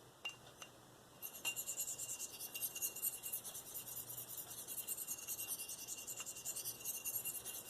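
Steel knife blade, a Spyderco Endura 4 in V-Toku2, being drawn freehand across a fine Spyderco ceramic sharpening stone with very light pressure: a fast, even run of short, high, hissing scrapes that starts about a second in.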